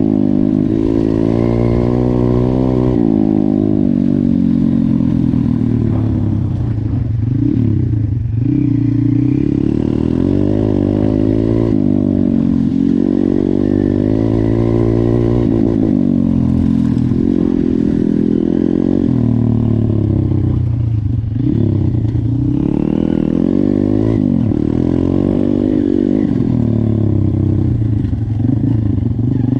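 YCF 150 pit bike's single-cylinder four-stroke engine running hard while being ridden. Its pitch climbs and falls again and again as the throttle is opened and backed off.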